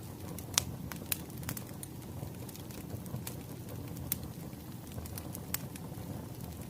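Burning firewood crackling, with irregular sharp pops over a low steady rumble; the loudest pop comes about half a second in.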